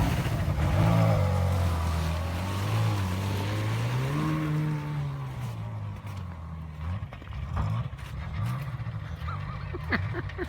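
Ferrari 430 Scuderia's V8 engine running as the car drives on, its note rising and then falling about four seconds in. A hiss of road and wind noise runs through the first half and dies down about six seconds in.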